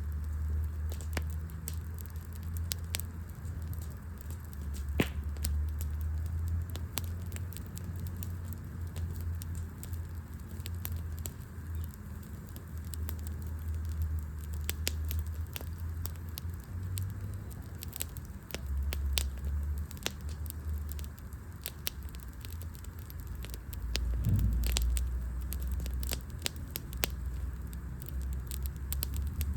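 Wood campfire burning, with many irregular sharp crackles and pops from the burning wood over a steady low rumble. One louder pop comes about five seconds in.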